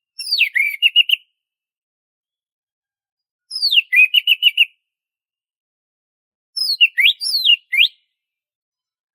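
Orange-headed thrush singing three short whistled phrases a few seconds apart. Each opens with a falling whistle; the first two end in a quick run of repeated notes, and the third is a few rising and falling slurs.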